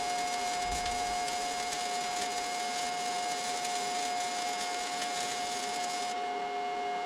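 A machine running steadily at constant speed, with a high, unchanging whine over an even rushing noise. About six seconds in, a second, lower steady tone joins in.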